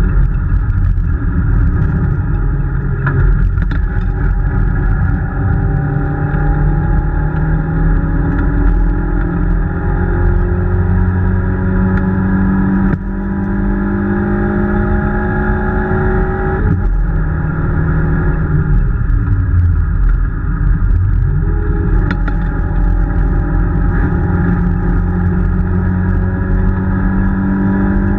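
Peugeot 205 rally car's four-cylinder engine, heard from inside the cabin, running hard on a lap with the revs climbing steadily. The pitch drops sharply twice a little before and after halfway, then dips and climbs again a few seconds later as the driver lifts and changes gear.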